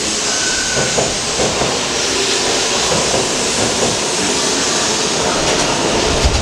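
Shinkansen train, an E4 series double-decker Max Toki, pulling into the platform: a steady, loud rushing hiss of the train running in, with a low rumble swelling near the end.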